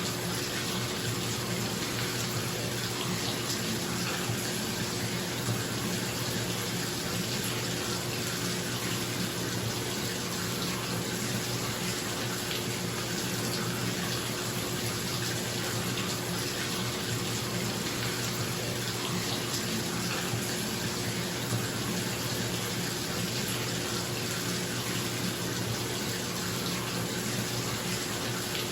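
Bathtub tap running steadily, water pouring into the tub, with a bathroom exhaust fan's steady hum underneath.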